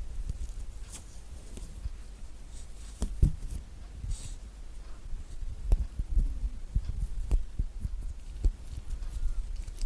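Close-miked handling of a thick-skinned orange as it is pulled into pieces and peeled. Irregular soft knocks and thumps over a low rumble, with a few brief tearing rustles of peel and pith.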